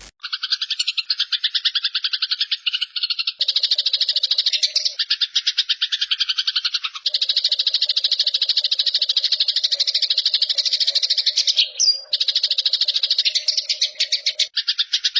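Eurasian tree sparrow giving a harsh, rapid chattering trill, the fighting call, in long runs broken by short pauses.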